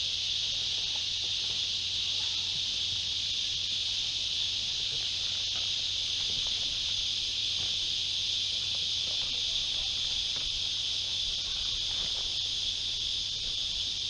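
Steady chorus of insects in the bush, a high, even drone that neither pulses nor changes.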